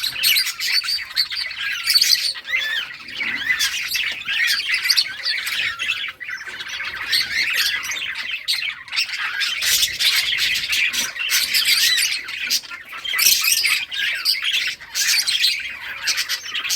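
A flock of budgerigars chattering and chirping all at once, a dense, continuous mix of warbles, chirps and squawks.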